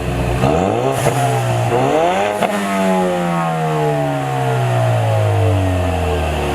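EcoBoost Mustang's turbocharged 2.3-litre four-cylinder, muffler deleted, rising in pitch for about two seconds, with a sharp crack where it tops out, then falling slowly in pitch.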